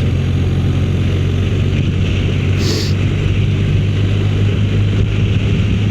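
Motorcycle engine running at a steady pitch while riding, under a constant rush of wind; a short hiss sounds about two and a half seconds in.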